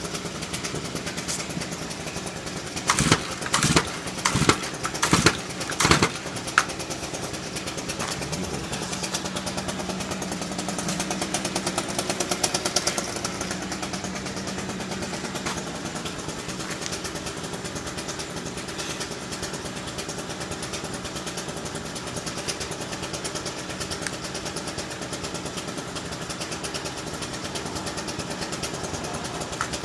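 Small two-stroke outdoor power equipment engine running steadily. About three seconds in comes a quick run of five sharp surges, like pull-starter yanks on a cold, freshly primed machine. Around ten seconds in the engine speed briefly rises, then settles back.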